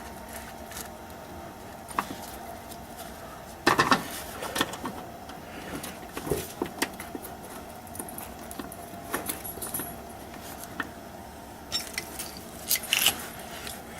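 Scattered metallic clinks and knocks of hand tools and nuts against metal while the cover's two nuts are reinstalled, with one louder knock about four seconds in.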